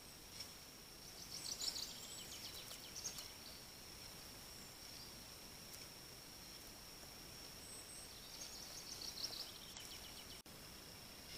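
A small songbird singing twice, each song a quick run of short high notes falling in pitch, over a steady faint high whine.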